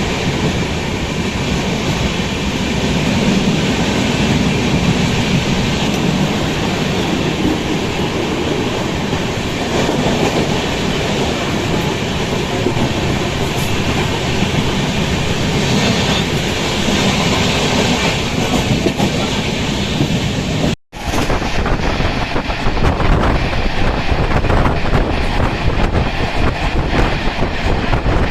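Coromandel Superfast Express passenger train running at speed, heard from on board: a steady rumble and rattle of the coach on the rails. About 21 seconds in, the sound cuts out for an instant and returns with more low wind rush and less hiss.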